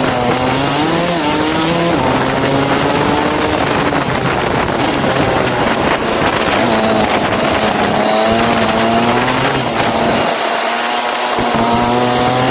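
Go-kart engine running under load, its pitch climbing and falling repeatedly as the throttle is opened and eased off, with a brief lift-off near the end before it climbs again.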